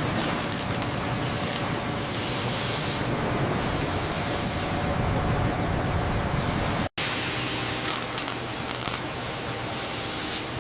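Steady hissing noise, like air or spray, over a faint low hum, with a brief dead-silent dropout about seven seconds in.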